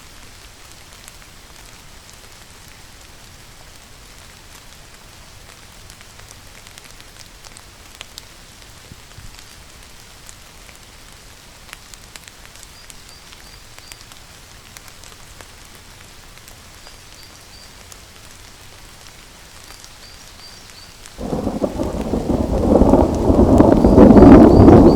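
Steady rainfall with scattered drop ticks. About 21 seconds in, a loud rumble of thunder breaks in suddenly and builds, still rolling at the end.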